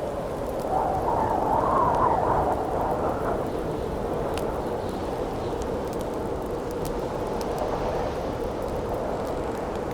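Howling wind over a crackling campfire: the wind swells into a wavering howl about a second in and eases by three seconds, while the fire gives off scattered sharp pops and crackles.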